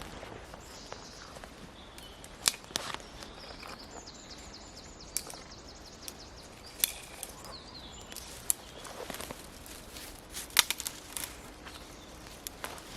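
Scattered clicks, knocks and rustles of a person moving about and handling things outdoors, with faint high bird calls in the background.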